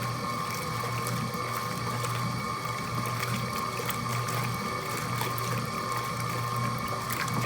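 Mueller Plus top-loading washing machine running with a load of floor cloths: a steady motor hum that swells and eases every second or so, with water churning and small mechanical clicks.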